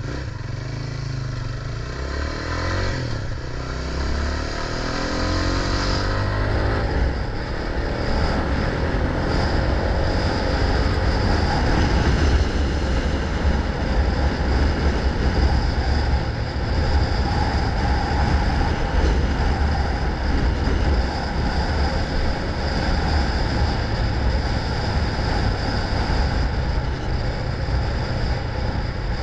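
Motorcycle engine running while riding, getting louder over the first few seconds as it picks up speed, then holding steady, with wind noise on the microphone.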